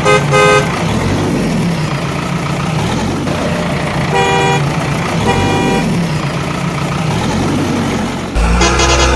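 Vehicle engine running steadily with its horn honking: two quick toots at the start, then two longer honks about four and five seconds in. Near the end a louder, different sound cuts in.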